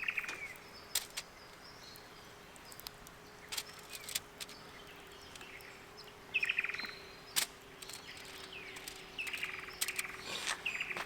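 Wild birds calling at a bush campsite: a few short, downward-sliding calls come at the start, about six seconds in and near the end, with scattered sharp clicks between them.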